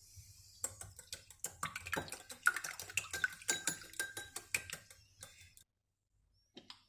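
Kitchen utensils clinking and clattering against dishes in a quick, irregular run of clicks for about five seconds, with a short ringing note partway through, then stopping; a single small clatter follows near the end.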